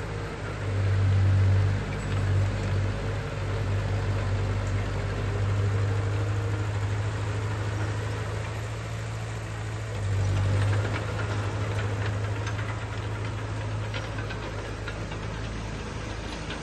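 Heavy construction machine's diesel engine running steadily, with a deep hum that swells louder about a second in and again about ten seconds in.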